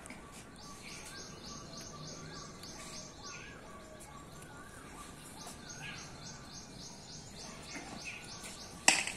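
Birds calling: runs of quick, high chirps repeated several times a second, with warbling whistled notes under them. One sharp knock near the end stands out as the loudest sound.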